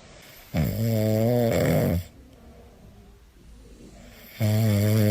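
A pet snoring: two long snores, one about a second in and another near the end, with a pause between.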